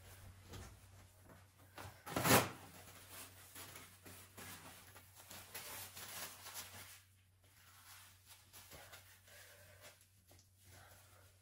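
Household handling noises: light knocks and rustles, with one louder short clatter about two seconds in.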